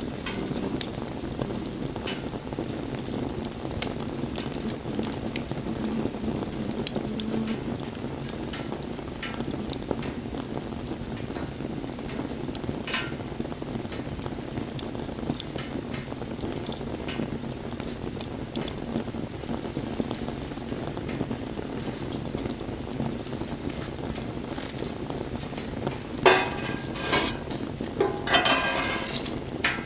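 Wood bonfire burning: a steady low rush of flames with scattered sharp crackles and pops, and a louder run of crackling near the end.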